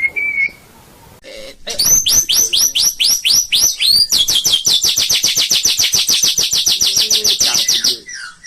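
White-rumped shama (murai batu) singing: a short whistle, then a run of fast down-slurred notes that turns about four seconds in into a long, rapid trill of about eight notes a second, stopping abruptly near the end before a few softer notes.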